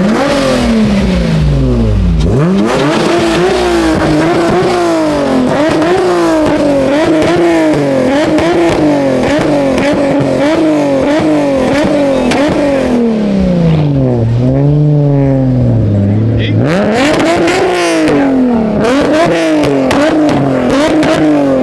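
Car engine revved hard over and over, its pitch rising and falling about once a second. Near two-thirds of the way through it drops back to a low idle for a couple of seconds, then climbs and pulses again.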